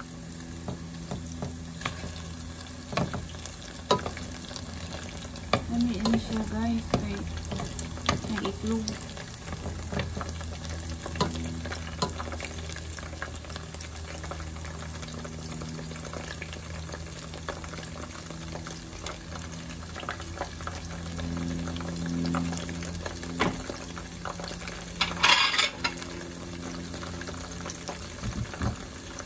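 Battered okra and asparagus deep-frying in hot oil in a pot, a steady sizzle, with metal tongs clicking against the pot as the pieces are turned, and a brief louder clatter near the end.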